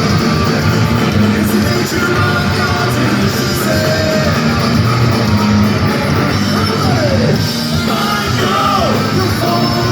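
A punk rock band playing live and loud, with distorted electric guitars, bass and drums, and shouted vocals over them.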